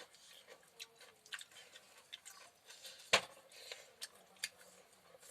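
Close-up eating sounds: irregular sharp clicks and smacks of chewing, with one louder click about three seconds in.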